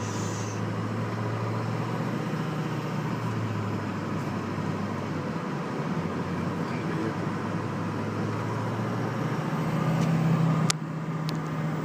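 Storm wind and rough, whitecapped lake water: a steady rush with a low hum beneath it. A couple of sharp knocks come near the end.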